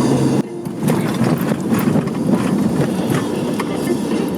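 Steady low vehicle rumble with road or rail noise, dipping sharply for a moment about half a second in before resuming.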